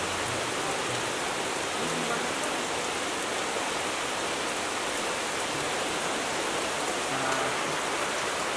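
Steady rain falling, an even, unbroken hiss, with faint voices underneath.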